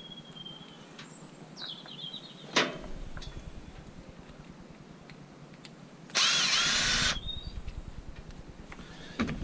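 A power drill runs in one short burst of about a second, about six seconds in, its pitch dipping briefly as it loads. Sharp knocks come before it and near the end.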